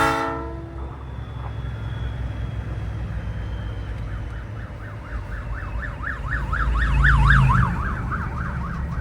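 A multi-chime train-style air horn (Nathan Airchime P3) cuts off right at the start over a big rig's low engine rumble. About five seconds in, an emergency-vehicle siren starts yelping, fast up-and-down sweeps that grow loudest about seven seconds in and carry on.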